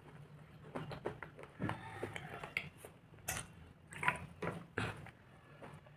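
Close-miked chewing of black slate bar in the mouth: irregular soft crunches, about a dozen spread unevenly, the loudest a little past the middle, as the slate is ground to a paste.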